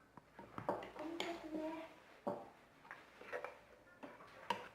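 Slime being kneaded and mixed by hand, giving faint sticky clicks and squelches at irregular moments.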